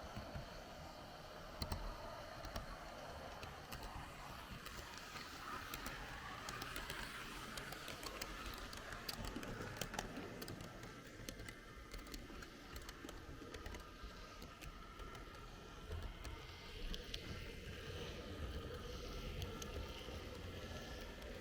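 H0-scale model train running along the track, its wheels clicking irregularly over rail joints and turnouts over a steady whir.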